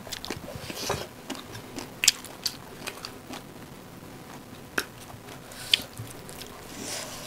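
Close-up chewing and wet mouth sounds of people eating rice and chicken curry, with scattered short sharp clicks and smacks.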